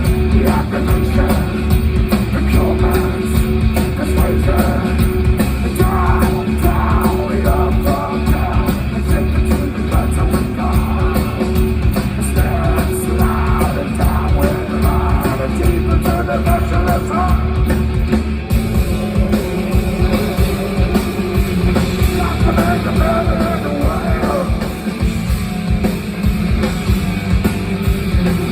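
Rock band playing live, with heavy bass, guitar and drums and vocals in places; the low end changes pattern about eighteen seconds in.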